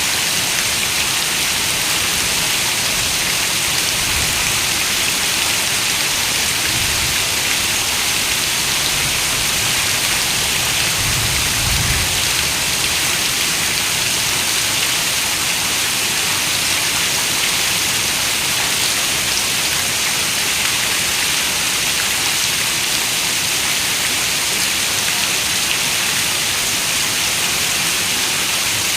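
Heavy rain falling steadily on a window, an even hiss of many drops. There is a brief low rumble about eleven seconds in.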